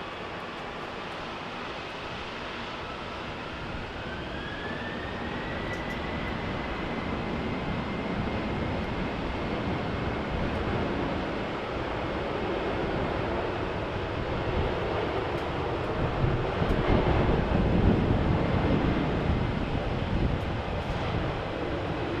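Jet airliner engines spooling up: a whine rises in pitch and then holds steady, while a deep engine rumble builds to its loudest near the end.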